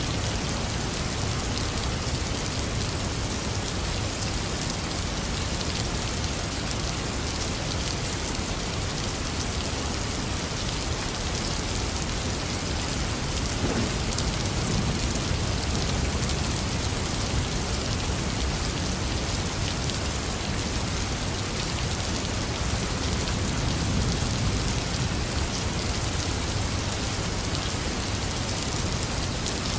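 Heavy rain falling steadily, with a low rumble of thunder swelling about halfway through.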